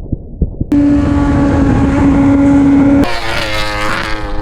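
A few muffled low thumps, then an abrupt cut to a Suzuki GSX-R1000 superbike engine running at high, steady revs. About three seconds in, another cut: the engine note wavers as the revs rise and fall.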